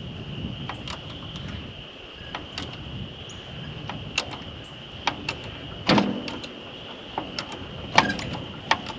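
Irregular sharp metal clicks and knocks from hand-worked lifting gear straining the loader arm back into place, the loudest about six and eight seconds in, over a steady high-pitched hiss.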